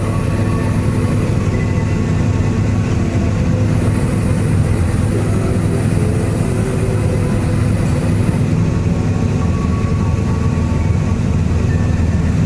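Steady drone of a small single-engine propeller plane's engine in level flight, heard inside the cockpit.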